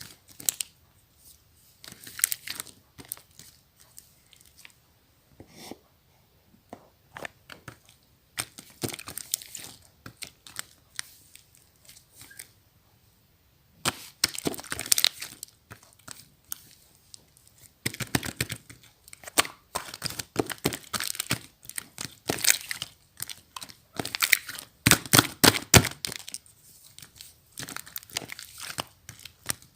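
Slime being squeezed and stretched by hand, giving off bursts of crackling, popping clicks with short pauses between.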